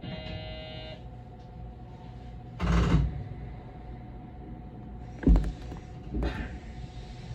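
A commuter train standing at a station. It opens with a short electronic chime. Three heavy thumps follow a few seconds apart, with hissing air from about halfway in. A steady low hum runs underneath.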